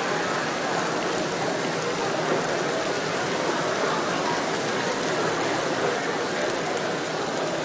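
Sliced bell peppers and onions and bratwursts sizzling in pans of hot soybean oil: a steady crackling hiss.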